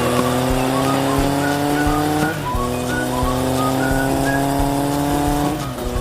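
Racing engine revving up through the gears: its pitch climbs steadily, drops suddenly at a gear change, and climbs again, twice in a row, with background music playing along.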